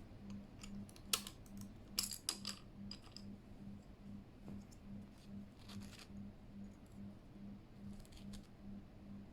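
Plastic keycaps being pressed onto the switches of a Keychron K8 mechanical keyboard: a few sharp clicks and snaps, the loudest about a second in and a cluster around two seconds in, with more about six and eight seconds in.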